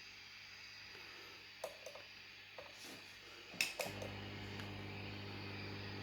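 A few light clicks and knocks of handling, the loudest about three and a half seconds in, then a steady low electrical hum from the Marshall AFD100 valve amp head sets in just before four seconds.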